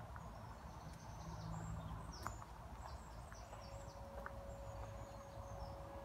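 A small songbird singing a run of short, high chirping notes, over a steady low rumble.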